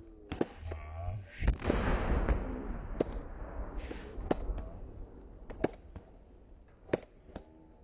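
Aerial fireworks going off: a loud bang about one and a half seconds in, followed by about two seconds of dense noise from the burst, then single sharp bangs every second or so.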